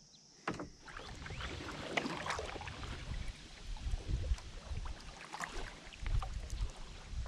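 Kayak paddle strokes dipping and splashing in river water, uneven and continuous, starting abruptly about half a second in, with a low rumble underneath.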